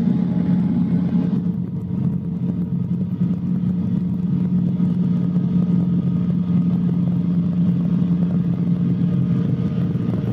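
Cabri G2 helicopter's four-cylinder piston engine and rotors running steadily, a constant drone with a fixed hum, picked up through the pilot's headset intercom.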